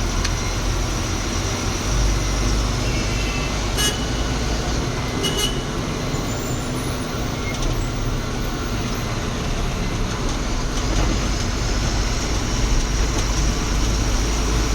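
Truck engine and road noise heard from inside the cab while driving, a steady low drone, with two short bursts of light clicking about four and five and a half seconds in.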